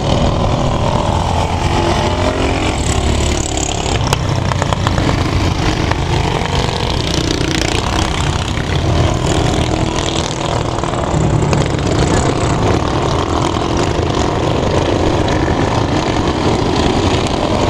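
Several minibike engines running hard as the bikes race around a dirt oval, the engine note rising and falling with the riders' throttle.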